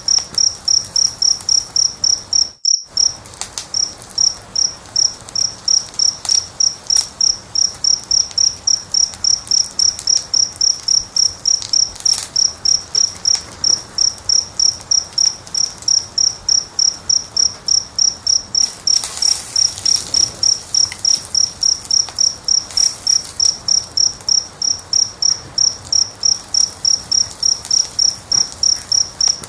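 A cricket chirping steadily at about three chirps a second, high-pitched and even, the loudest sound throughout. Faint pops and crackles of a wood fire lie beneath it. All sound cuts out briefly about two and a half seconds in.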